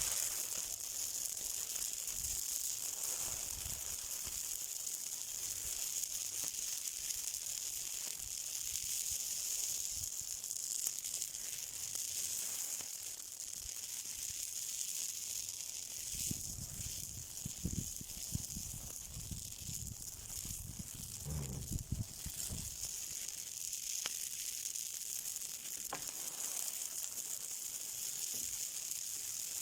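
Something burning with a steady high hiss and sizzle, a few faint pops, and a stretch of low rumbling between about 16 and 22 seconds in.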